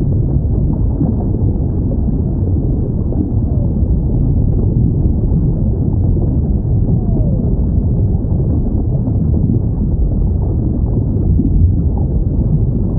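Steady deep underwater rumble with faint whale calls, a few drawn-out glides that fall in pitch.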